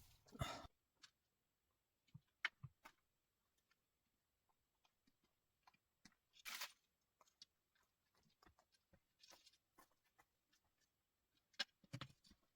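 Near silence broken by scattered faint clicks and a few brief soft knocks or rustles, with one just after the start, one about six and a half seconds in and a cluster near the end.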